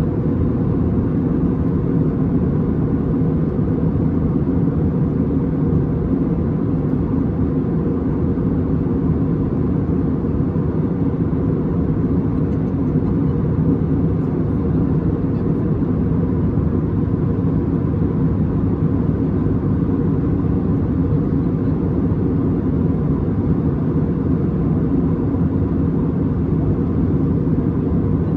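Steady cabin noise inside an Airbus A320neo airliner in descent: an even, low hum of airflow and engines that holds level throughout, with a faint steady tone above it.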